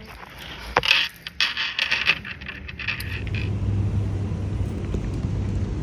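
Keys jangling, with a few sharp clicks, for about three seconds. Then a steady low rumble like a vehicle takes over.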